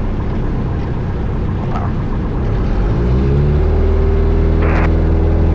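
1972 Cessna Skyhawk's four-cylinder Lycoming O-320 engine and propeller running at low power, then throttled up about three seconds in: the pitch rises quickly and settles into a steady, louder full-power run for the touch-and-go takeoff. A brief hiss comes near the end.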